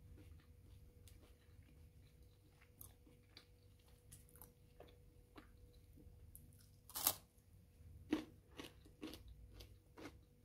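Someone biting and chewing crunchy food up close, with a few louder crunches from about seven seconds in.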